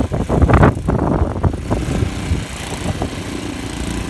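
Small engine of a snow-clearing machine running steadily, with loud uneven noise over it during the first two seconds.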